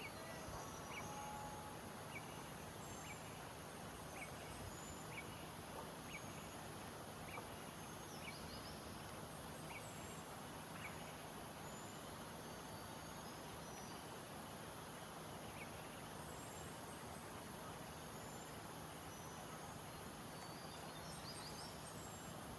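Faint outdoor nature ambience. One bird gives a run of short chirps, evenly spaced about every half-second, which thins out about halfway through, while other birds whistle higher up over a steady hiss.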